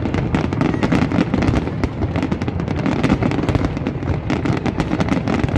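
Fireworks going off in rapid succession: a dense, continuous crackle of many sharp pops over heavy low booms.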